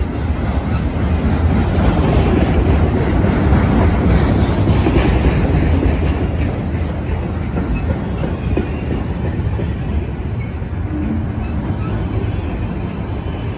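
Freight train of autorack cars rolling past at close range: a steady rumble of steel wheels on the rails with repeated clicks, loudest a few seconds in and easing slightly toward the end.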